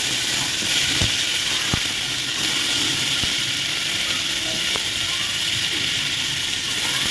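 Diced carrots and potatoes sizzling in hot oil in an open aluminium pressure cooker, a steady hiss with a few sharp clicks now and then.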